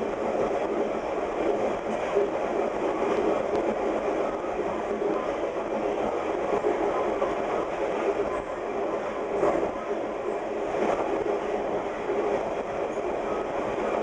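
VIA Rail passenger train running fast on jointed rail, heard from the rear of the last car: a steady rumble and rush of wheels on track, with faint clicks as the wheels cross rail joints.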